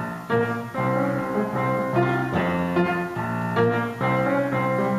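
Piano playing a song's introduction: a series of struck chords that ring on, ahead of the singer's entry.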